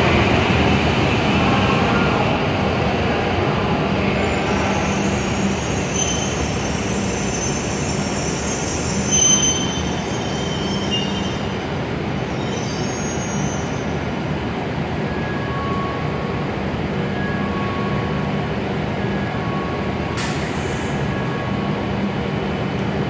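E7 series Shinkansen train rolling slowly along the platform and braking to a stop, its running noise easing off. There are high brake squeals in the middle and a short hiss near the end.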